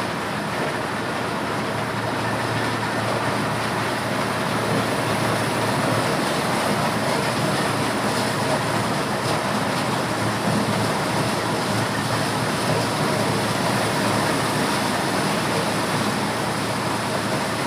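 Motorised corn sheller running steadily under load, shelling corn: a continuous, even mechanical din.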